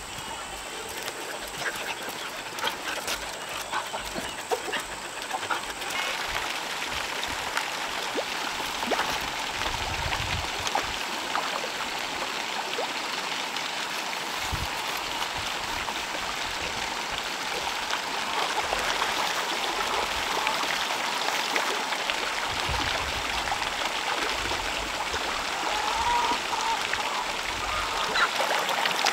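Steady running and splashing water, a continuous trickle peppered with small splashes, getting a little louder after about six seconds.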